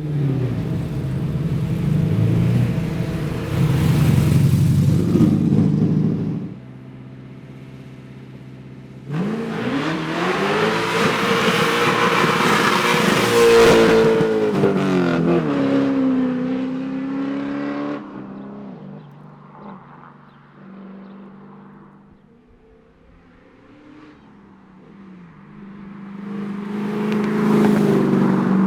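Holden Commodore SL/E rally car's engine at full throttle on the stage, heard in several separate passes. The note climbs and then drops away as the car goes by, then falls quiet before the car approaches again, growing louder near the end.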